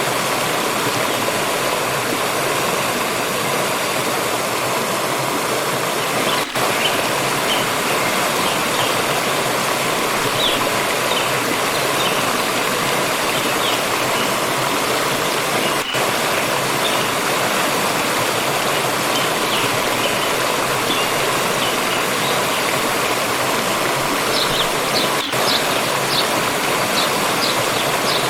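Forest stream rushing steadily over rocks, with faint short high chirps of small birds here and there, most of them near the end.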